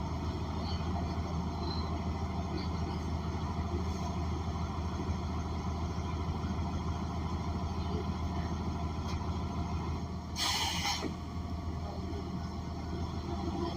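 Steady low drone of a 2014 New Flyer XN40 transit bus, heard from inside, with its Cummins Westport ISL G natural-gas engine running. About ten seconds in, a short hiss of air, about half a second long, sounds from the bus's air system.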